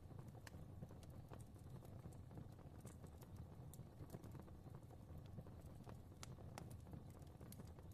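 Fire crackling faintly: irregular small pops and snaps over a low, steady rumble of the flames.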